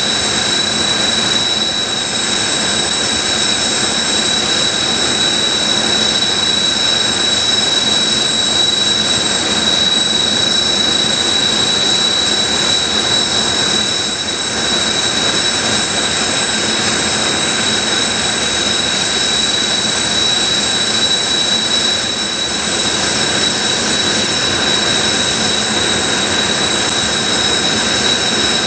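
Kawasaki T-4 jet trainers' turbofan engines running on the ground, a loud steady whine with a constant high pitch over a rushing roar.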